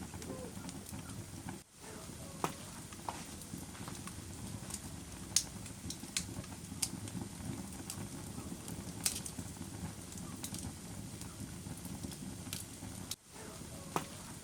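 Wood fire burning in a fireplace: a steady low rush of flames with sharp crackles and pops at irregular intervals. The sound dips out briefly twice, near the start and near the end.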